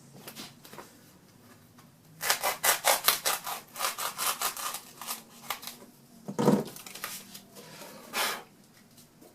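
A blade sawing through a foam pool noodle in rapid back-and-forth strokes, about five a second, for three and a half seconds starting about two seconds in. A dull thump follows, then one more stroke near the end.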